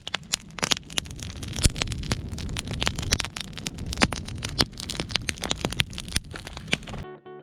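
Wood bonfire burning with dense, irregular crackling and popping over a steady hiss. It cuts off suddenly near the end, replaced by guitar music.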